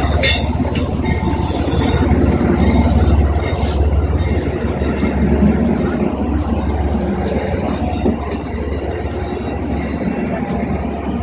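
Amtrak passenger train rolling past, its steel wheels running on the rails in a steady loud rumble that slowly eases. A faint high wheel squeal comes in during the second half.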